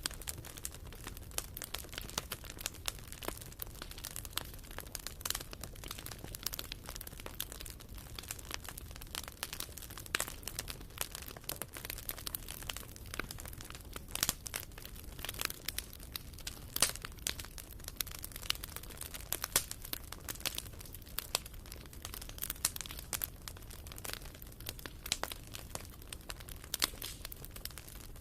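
Firewood burning in a fireplace: constant irregular crackles and pops over a low steady rumble.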